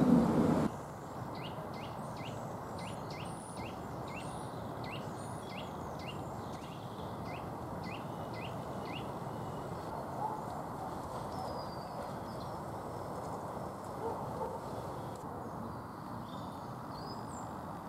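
Wild bird chirping a quick run of short, repeated notes, two or three a second, for about eight seconds, then scattered calls, over a steady outdoor hiss. A louder low rumble cuts off abruptly under a second in.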